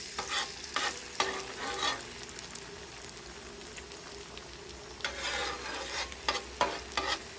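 Chopped pork frying in butter and rendered pork fat on a hot flat-top griddle: a steady sizzle. A spatula scrapes and turns it in short strokes during the first two seconds and again near the end.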